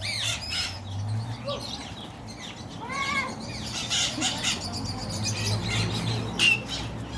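Conures calling: a series of short squawks and chirps that rise and fall in pitch, with a sharper call near the end, over a steady low hum.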